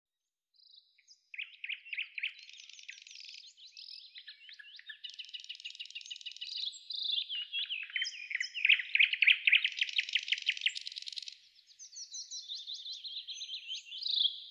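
Songbirds singing: a long run of rapid trills and varied chirping phrases that starts about half a second in and is loudest past the middle.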